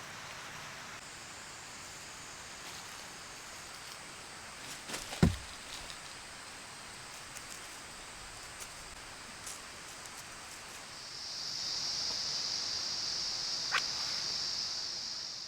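Outdoor ambience: a steady soft hiss with one sharp thump about five seconds in, then a high steady buzz for the last few seconds.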